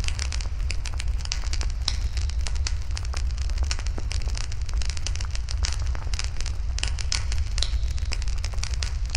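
Wood fire burning in a fire pit, crackling continuously with many irregular sharp pops over a steady low rumble.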